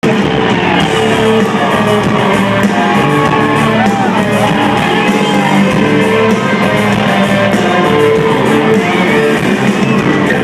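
Live country-rock band playing loud, with electric guitars, steady held notes and singing or shouting voices. It is an audience recording, so the sound is dull and lacks treble.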